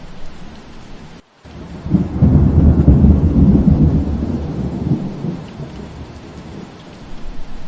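Steady rain with a rolling thunder rumble that swells about two seconds in and dies away over the next few seconds. The sound cuts out briefly about a second in.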